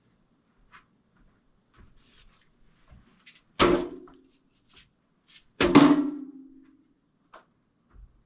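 Two loud bangs about two seconds apart, each ringing briefly as it dies away, among lighter clicks and taps.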